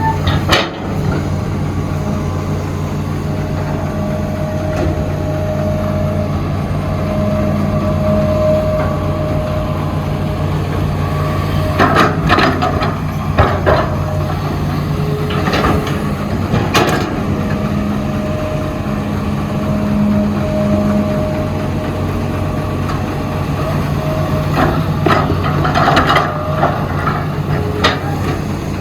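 Heavy diesel excavator engine running steadily, with a higher whine that comes and goes as it works and several sharp clanks and knocks, in two clusters about halfway through and near the end.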